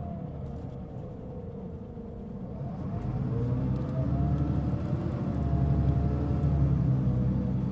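Mitsubishi Fuso Aerostar LKG-MP37FK city bus running, its engine pulling harder and louder from about three seconds in. A wavering whine rides over the engine note: the strong abnormal noise this bus was making.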